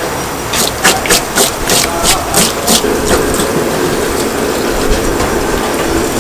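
A quick run of about nine sharp taps, roughly four a second, lasting about two seconds, then a steady background hum.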